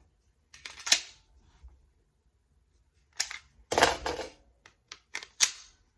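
Hard clicks and clacks of an FN 509 pistol and its accessories being handled: a pair of clicks just under a second in, a longer rattling clatter around the middle, then several quick clicks near the end.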